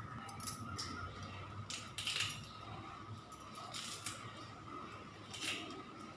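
Kitchen utensils clinking and scraping in several short bursts, the loudest about two seconds in and again near the end, over a faint steady hum.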